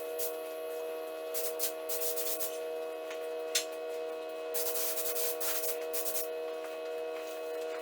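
Spray gun hissing as it lays a heavy second coat of metallic paint. The hiss comes in passes about a second long, starting and stopping with the trigger, over a steady hum, with one sharp tick in the middle.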